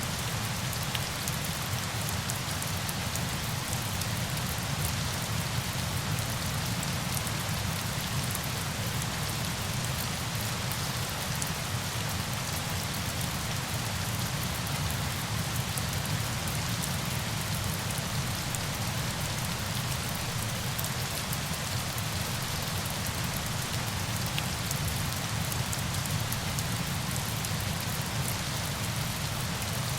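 Steady rain ambience: a dense, even patter of falling water with many fine drop ticks over a low rushing underneath, unchanging throughout.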